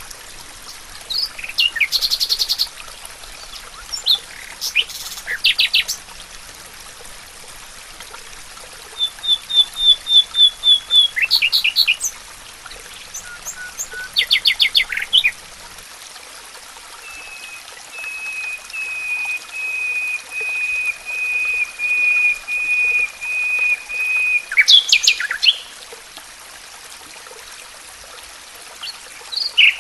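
Songbirds singing in turn with short chirps and trills, including a quick run of about eight high notes and a long, even series of repeated notes lasting about seven seconds, over a faint steady hiss.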